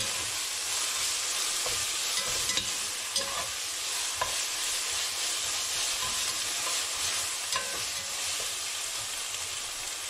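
Onion, tomato, herbs and ginger-garlic paste sizzling steadily in oil and ghee in an enamelled cast-iron pot, stirred with a metal slotted spoon that scrapes and clicks against the pot several times.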